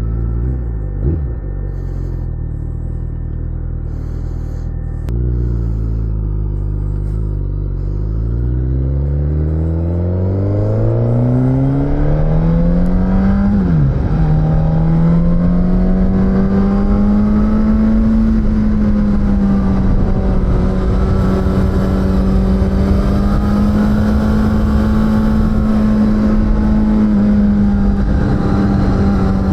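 Suzuki GSX-S1000 inline-four engine idling, with a short blip of the throttle about a second in. About eight seconds in it pulls away, the revs rising steadily, then drop briefly at a gear change. After that it runs at a fairly steady engine speed.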